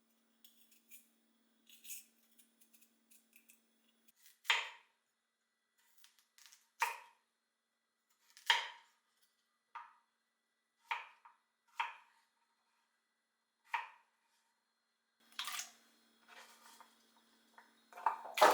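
Slow knife cuts on a cutting board: separate sharp knocks one to two seconds apart, with a louder clatter near the end.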